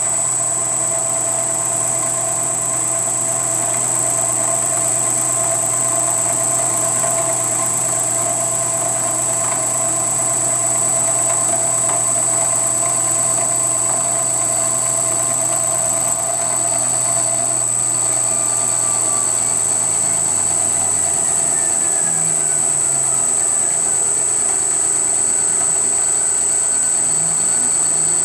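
IH CNC mill with a belt-drive spindle taking a light, low-RPM finish pass: a steady machine whine with a high-pitched tone throughout, quiet for milling. From about two-thirds of the way in the lower tones step and glide in pitch as the axis moves change.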